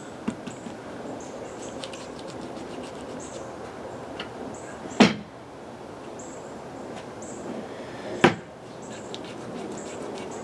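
Handling sounds as glue is worked into the crack under a bow's rawhide backing: a steady low rustle with faint clicks, and two sharp knocks about five and eight seconds in.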